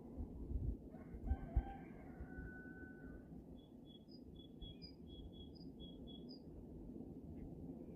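A rooster crows once, a drawn-out call of about two seconds that rises and then holds, over a steady low rumble with a few bumps near the start. Afterwards a small bird chirps repeatedly in short, high notes.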